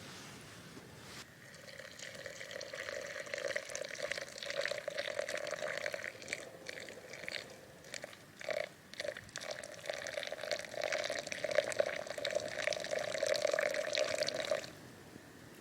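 Water pouring steadily into a container for about thirteen seconds, with a ringing tone and splashy crackle, stopping suddenly near the end.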